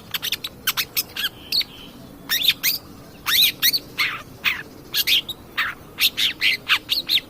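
Long-tailed shrike (cendet) singing hard: a rapid string of short, sharp chirps and quick up- and down-sweeping whistled notes, in clusters with brief gaps.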